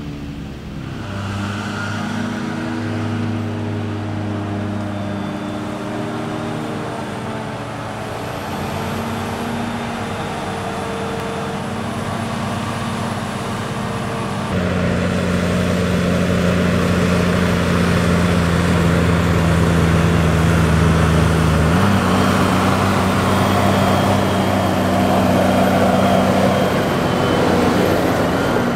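Heavy farm machinery diesel engines running steadily, with a faint high whine on top. The engine note changes abruptly about halfway through and steps up in pitch a little later.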